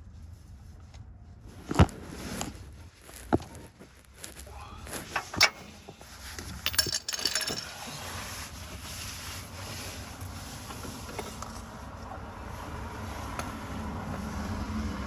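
Sharp metallic clanks and knocks from hand tools and parts being handled during car repair work, with a short metallic jingle about seven seconds in. After that a steady low hum takes over and grows a little louder toward the end.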